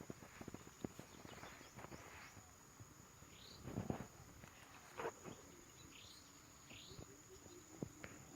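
Faint outdoor ambience: a steady high insect drone, a few soft rustles, and three short high bird chirps.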